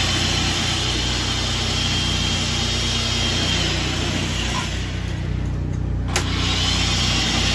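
Steady machinery running: a low engine-like hum under a hissing whir. The whir fades out about five seconds in and comes back after a sharp click about six seconds in.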